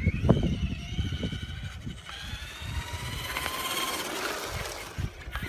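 Electric motor of an RC car whining, its pitch rising and falling with the throttle, steadiest and highest in the middle and fading near the end. Rough crackle underneath in the first couple of seconds.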